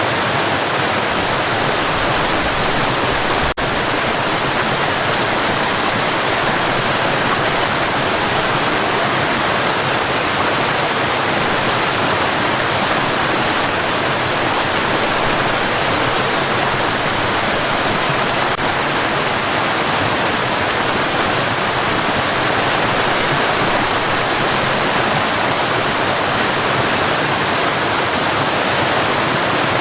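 Steady white noise, an even hiss with no changes, with a brief dropout about three and a half seconds in.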